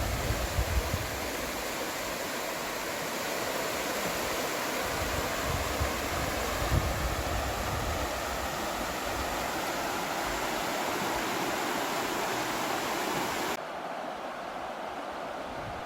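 Rushing water of a mountain stream, a steady full hiss, with low wind buffeting on the microphone in the first few seconds. Near the end it cuts abruptly to a quieter, duller rush.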